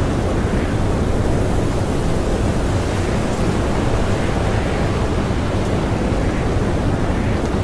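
Strong blizzard wind blowing steadily: a dense, even rush heaviest in the low end, with no gusts or breaks.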